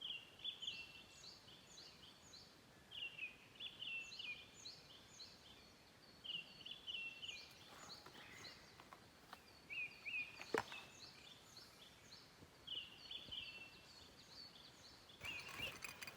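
Small birds chirping and singing in short repeated phrases, faint throughout. A single sharp click about two-thirds of the way through, and rustling with light knocks near the end.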